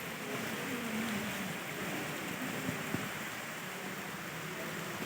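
Heavy rain falling steadily, an even hiss, with a couple of sharp drip clicks about three seconds in.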